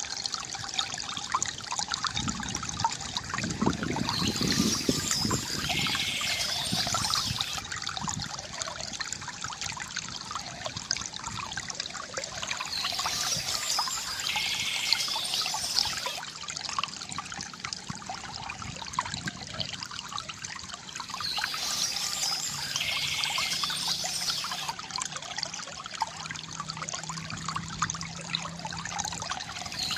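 Water from a bamboo fountain trickling and pouring steadily, with bursts of bird chirping that come back about every nine seconds.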